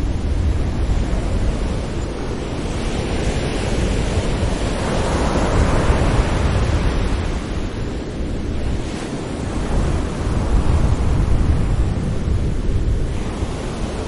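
Ocean waves breaking gently on the shore, a steady wash of surf that swells and eases in slow surges.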